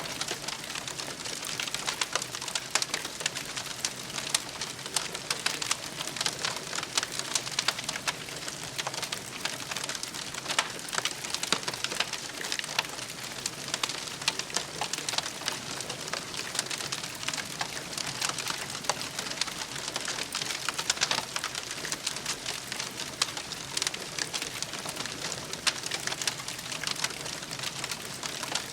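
Wood campfire crackling steadily, with dense irregular small pops and snaps over a soft hiss.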